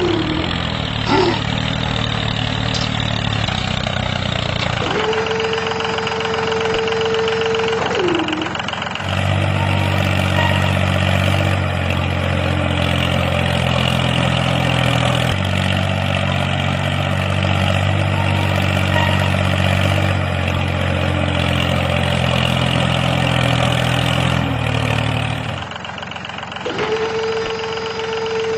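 DIY mini tractor running: a steady engine-like drone throughout. A separate high steady tone comes and goes, sliding down in pitch each time it stops.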